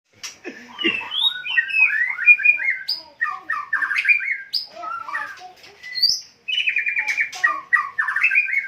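White-rumped shama singing a varied song of clear whistles, rapid trills and chattering phrases, with a brief pause about six seconds in.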